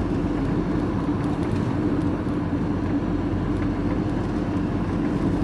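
Vehicle engine and road noise heard from inside the cab while driving along at a steady pace: a constant low rumble with a steady hum.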